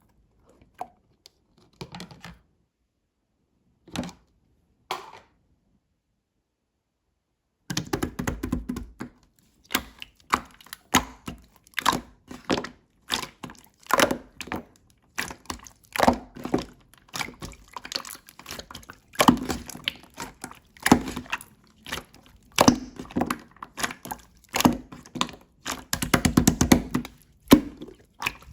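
Slime being squeezed and pressed by hand, making crackling, popping clicks and soft thuds. It starts with a few scattered clicks, then about eight seconds in settles into repeated bursts of crackling roughly once a second.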